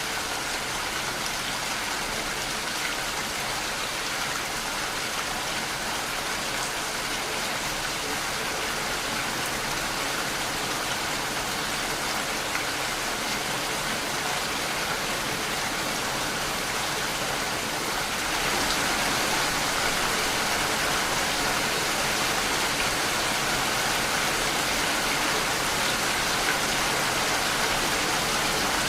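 Steady rainfall, an even hiss of drops with no distinct events, getting a little louder about two-thirds of the way through.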